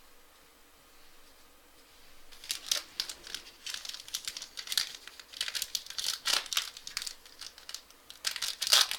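Trading card pack wrapper crinkling and being torn open by hand, beginning about two seconds in as a dense run of sharp crackles.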